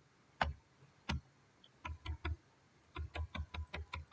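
Computer keyboard keys clicking in short, irregular runs: two single taps, a quick group of three, then a faster run of about six taps near the end.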